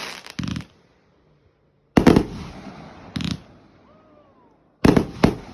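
Fireworks going off: five sharp bangs at uneven spacing, two of them close together near the end, each one fading away over a second or so.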